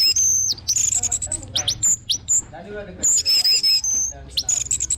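Orange-headed thrush singing a fast, varied, loud song. It mixes high held whistles with many quick sharp slurred notes, with hardly a pause, over a low steady hum.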